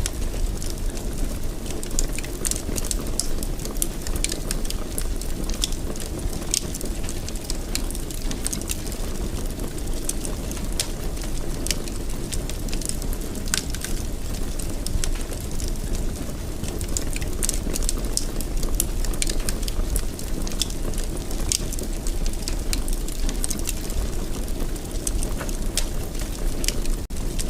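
Wood fire burning in a fireplace: a steady low rumble of flames with frequent small sharp crackles and pops scattered irregularly throughout.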